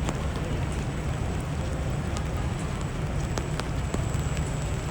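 Steady rain on a city street, with a constant low rumble underneath and a few sharp drip ticks.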